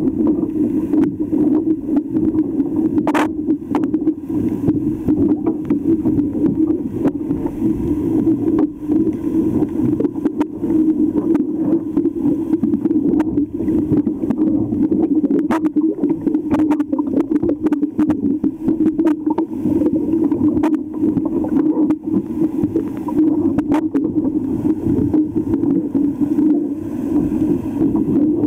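Cleaning of a sailboat's hull bottom: a steady low hum with frequent short clicks and scrapes, one sharper click about three seconds in.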